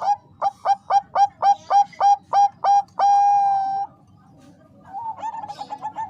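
Zebra dove of the Thai-bred 'perkutut Bangkok' line singing. It gives a run of about ten short, clipped coos at roughly four a second, ending in one long drawn-out note. After a second's pause a quieter, quicker run of notes begins near the end.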